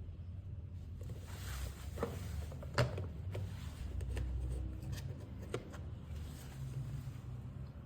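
Light clicks and taps of small hand tools and phone parts being handled on a repair bench, with one sharper click about three seconds in, over a low steady hum.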